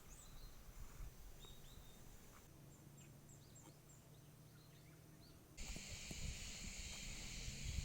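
Faint outdoor nature ambience: small birds chirping in short high calls, then about five and a half seconds in the sound switches abruptly to a steady high insect drone. A low rumble sits underneath throughout.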